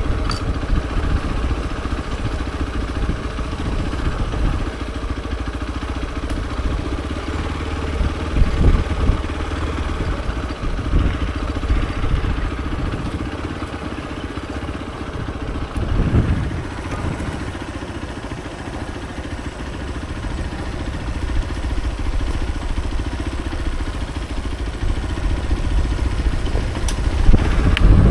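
Hero XPulse 200 4V's single-cylinder engine running steadily, with brief louder surges about a third and about halfway through and a rise in loudness near the end.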